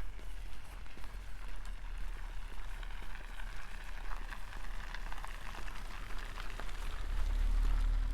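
Footsteps crunching on dry, frozen snow: a fine crackling that swells in the middle. Under it runs a steady low rumble that grows louder near the end.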